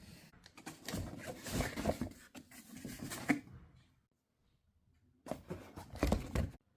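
Crackly rustling and clicking of packaging being handled and opened, in two spells with a short pause between.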